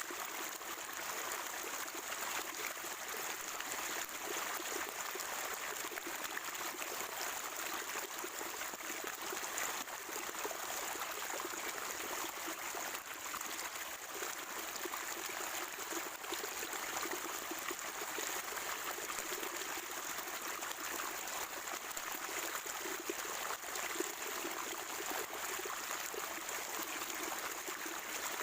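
Water of a natural spring trickling and gurgling, a steady, unbroken flowing sound.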